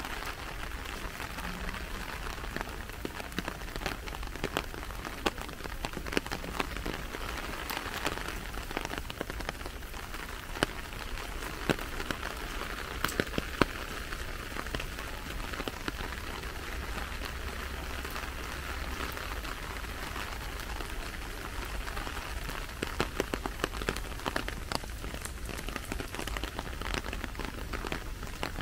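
Rain falling steadily: an even hiss with many sharp, irregular drop ticks close by, a few of them louder.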